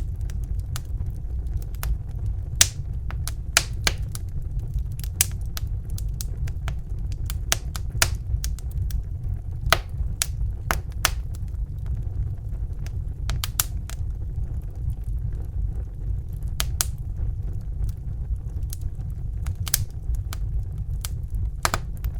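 Fire crackling: irregular sharp pops and snaps, several a second at uneven spacing, over a steady low rumble.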